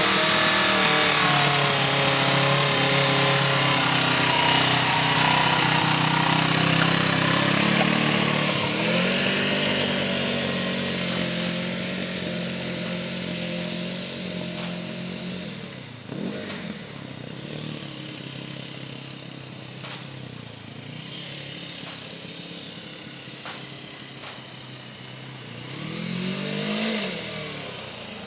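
Suzuki motorcycle engine running and revving close by, then fading as the bike is ridden away. Near the end it swells again with a quick rise and fall in pitch as it comes back past.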